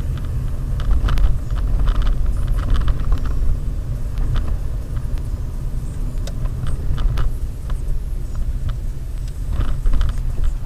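Steady low rumble of a car driving on the road, with scattered small clicks and knocks.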